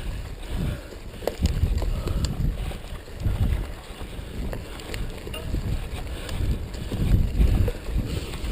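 Mountain bike riding over rough dirt trail, with gusty wind rushing over the microphone and scattered clicks and rattles from the bike.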